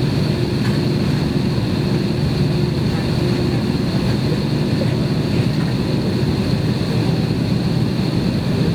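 Steady cabin noise inside an Airbus airliner with its jet engines running on the ground before takeoff: a constant low drone with a thin high whine over it, holding level.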